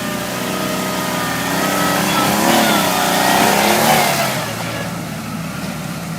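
Ural motorcycle's flat-twin engine revving, rising in pitch and loudness to a peak about four seconds in, then easing off.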